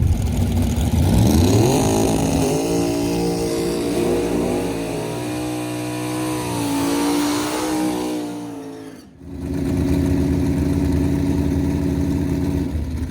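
Drag racing car engine at full throttle down the strip. Its pitch climbs about a second in, then holds high and wavers. It drops out sharply about nine seconds in, then a steady engine note follows.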